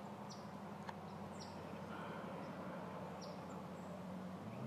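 A small bird's short high chirps, about four, spaced out and each dropping quickly in pitch, over a low steady hum.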